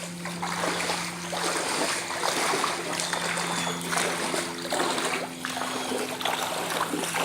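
Floodwater from heavy rain, splashing and flowing, with repeated short splashes over a continuous rush of water. A steady low hum runs underneath.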